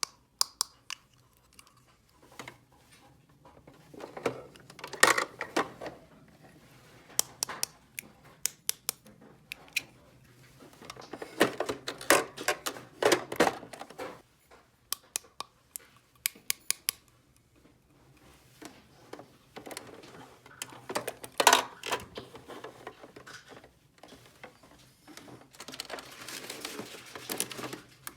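Small plastic toy pieces being handled: irregular clicks, taps and light clattering, with a longer rustle near the end.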